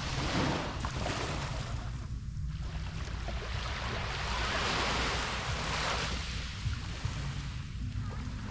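Small waves washing up on a beach, swelling twice: briefly near the start and longer in the middle, over a steady low rumble of wind on the microphone.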